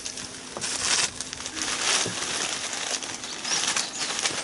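Rustling clatter of a large handful of disposable wooden chopsticks being tipped into a fire pit, with louder bursts about one and two seconds in.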